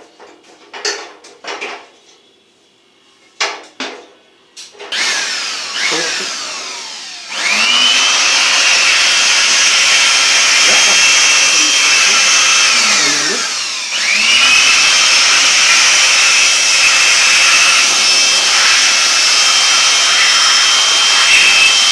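Small metal parts clink and knock for the first few seconds. Then a handheld electric power tool spins up with a rising whine, runs steadily for about six seconds, slows briefly, and spins up again to run steadily to the end.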